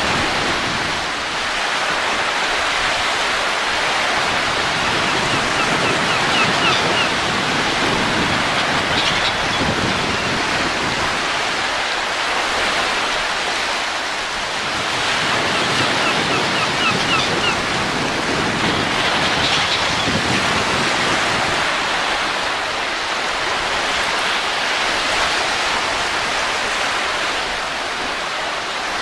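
Steady rushing wind, swelling and easing slowly, with a few faint, short, high chirps now and then.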